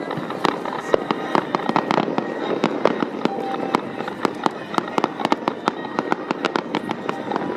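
Fireworks bursting and crackling, a dense run of sharp pops several times a second.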